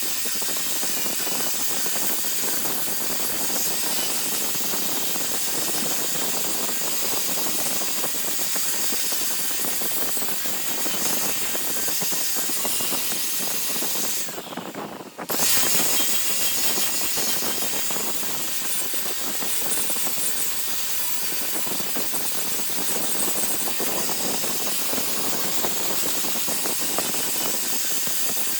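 Large wood lathe running with a tool or abrasive working the spinning wood, a steady hiss. It drops out briefly a little past halfway, then resumes.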